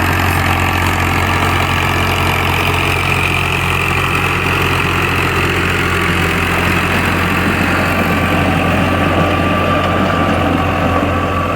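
New Holland Ghazi tractor's diesel engine running steadily under heavy load, pulling a rotavator through dry, hard soil.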